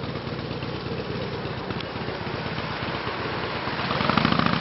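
Motorcycle engine running at a steady idle, its firing pulses getting louder near the end.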